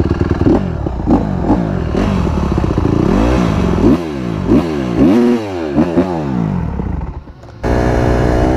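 Dirt bike engine being ridden hard, its revs rising and falling again and again, about every half second to a second, as the throttle is worked. About seven seconds in the engine sound drops away briefly, then comes back holding a steady pitch.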